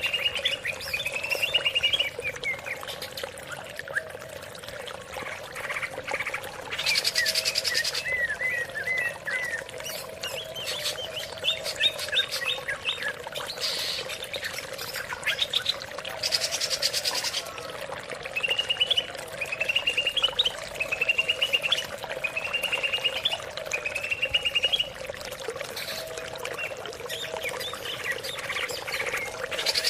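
Greater green leafbird (cucak ijo) singing: a run of short, repeated rising chirp phrases, broken twice by a brief burst of rapid, dense trilling, over a steady low background drone.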